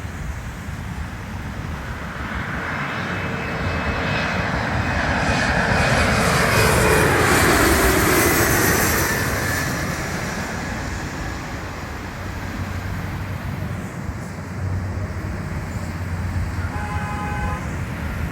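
Jet airliner passing low overhead on landing approach: the engine noise swells to its loudest about seven seconds in, its whine sliding down in pitch as the plane goes by, then fades back into a steady low rumble.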